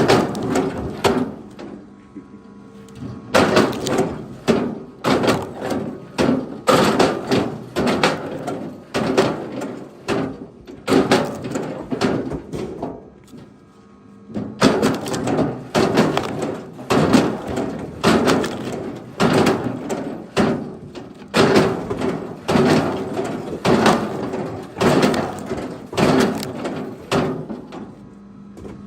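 Pieces of firewood knocking and thudding against each other, about one or two knocks a second with a couple of short lulls.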